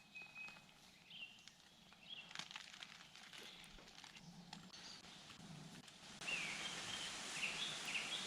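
Quiet outdoor woodland ambience with faint bird chirps. About six seconds in, a steady hiss comes up and a bird starts chirping repeatedly, short calls about half a second apart.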